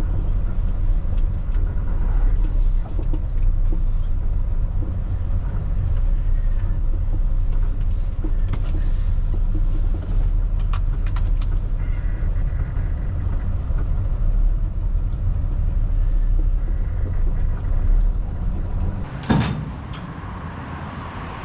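Mitsubishi Fighter dump truck's diesel engine running with a steady low rumble. Near the end there is a sharp thump, after which the rumble drops away and it is quieter.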